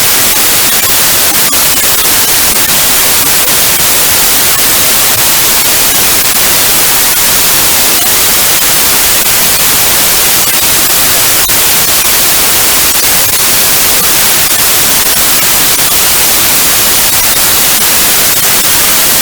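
Synthetic white noise from a signal generator: a loud, steady, even hiss with no tones or changes.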